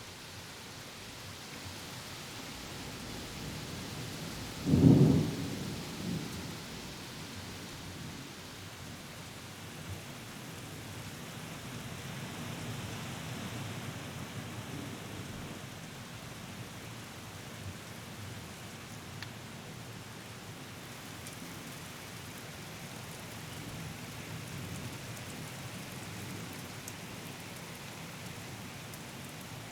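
Steady rain falling throughout, with a loud clap of thunder about five seconds in, a smaller boom a second after it, and faint low thunder rumbling on and off later.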